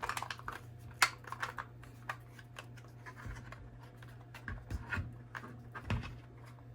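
Light clicks, taps and rubbing of hard 3D-printed plastic sign pieces being handled and fitted together, with a sharper click about a second in and a few soft thumps later, over a faint steady low hum.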